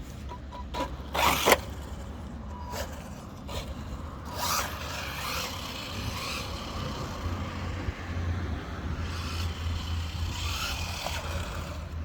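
WLtoys 144001 1/14-scale electric RC car with stock brushed electronics driving on a road: motor and tyre noise over a steady low rumble, with a loud short scrape about a second and a half in.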